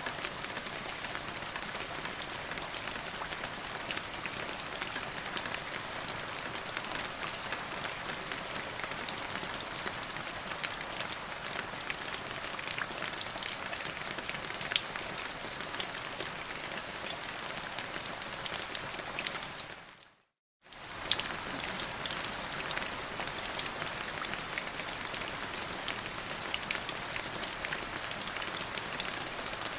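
Steady rain falling, with the close ticks of single drops heard through it. About two-thirds of the way through, it fades out to silence for under a second and then comes back.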